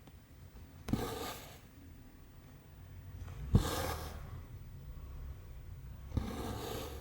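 Embroidery needle and cotton thread drawn through 14-count cross-stitch canvas three times, about two and a half seconds apart. Each time there is a sharp pop as the needle goes through, then a short rasp as the thread is pulled taut.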